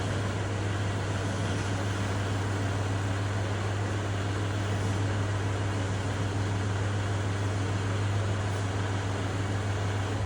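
Kubota tractor's diesel engine running steadily with a constant low hum.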